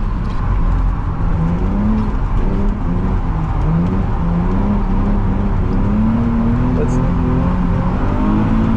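Car engine heard from inside the cabin over a heavy low rumble, its pitch rising and falling with the throttle as the car is driven on a wet track.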